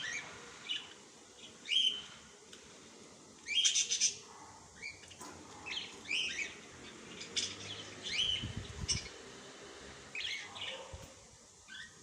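Small birds chirping and tweeting: short, high sweeping notes coming in irregular clusters, the loudest a little under four seconds in.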